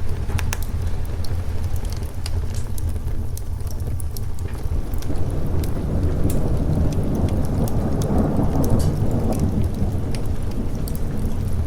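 Steady rain with a long rumble of thunder that swells about halfway through and fades near the end, over scattered sharp crackles from a fireplace.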